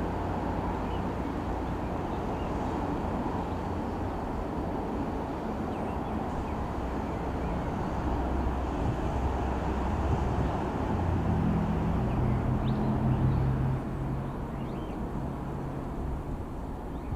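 Lockheed Martin C-130J Hercules four-engine turboprop flying past: a steady rumble that builds from about halfway, with a low propeller drone coming in near the loudest point and fading before the end.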